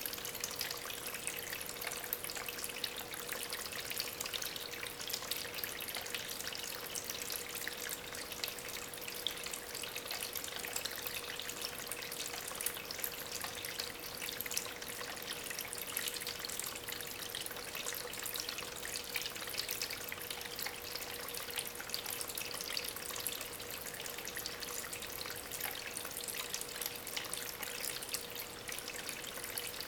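Water from a small homemade tabletop waterfall, pump-fed, trickling and splashing steadily over stones, with a faint steady hum underneath.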